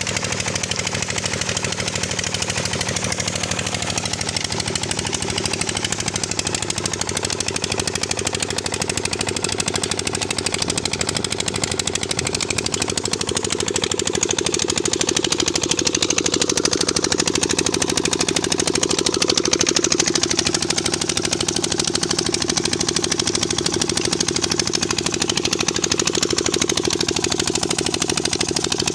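Diesel engine driving a tubewell pump, running steadily with a rapid, even knocking beat. It grows a little louder about halfway through, then settles.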